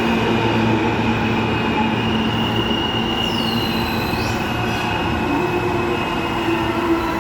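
R179 subway train running into the station: a steady rumble with several held motor tones, and a brief high squeal about three seconds in that drops in pitch and then rises again about a second later.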